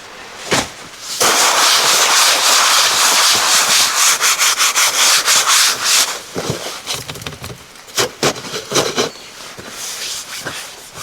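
Loud steady rubbing noise lasting about five seconds, followed by scattered knocks and rustles of handled gear.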